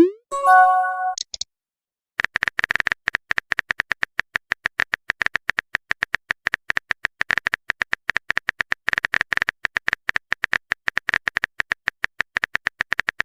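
Texting-app sound effects: a quick rising pop and short chime as a message comes in, then a long run of rapid, even keyboard-tap clicks as the next message is typed.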